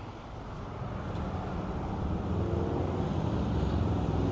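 A car engine rumbling, growing louder over a few seconds as the vehicle comes closer.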